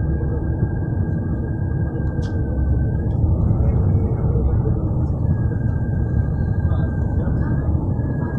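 Large truck running close by amid road traffic: a steady low rumble, with a thin whine over it that rises briefly about four seconds in.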